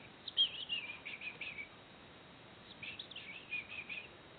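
Young hand-reared songbird, which its keepers take for a greenfinch, chirping in two bouts of quick, high calls: one near the start and one about halfway through.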